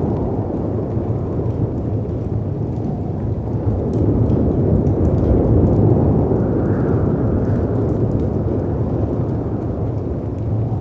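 Storm ambience: a deep rush of howling wind and crashing sea waves, swelling about four seconds in and easing toward the end, with a faint rising-and-falling wind howl in the middle. Light fireplace crackles tick over it.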